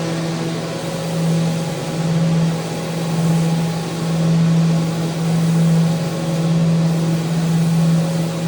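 Electric power sander running steadily against a handrail: a constant motor hum under a rasping hiss, its loudness swelling and easing every second or so.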